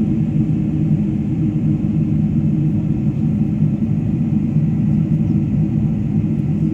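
Steady low rumble of a Boeing 747-400 in its climb after takeoff: engine and airflow noise heard from inside the cabin.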